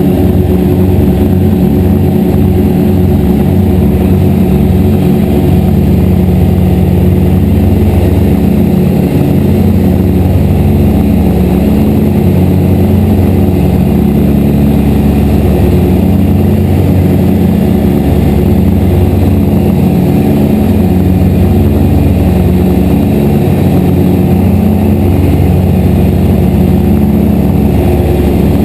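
Twin piston engines of a Grumman G-44 Widgeon amphibian running loud and steady, with a throbbing beat in the first several seconds.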